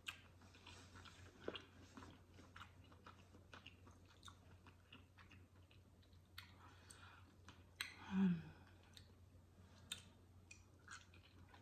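Close-miked chewing of chitterlings (pork intestines), with many small wet mouth clicks, and a short hum about eight seconds in.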